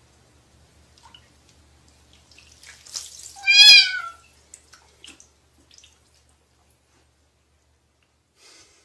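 A domestic cat meowing once, loudly, about halfway through, the call lasting about half a second. A short burst of noise comes just before it, and a few faint clicks follow.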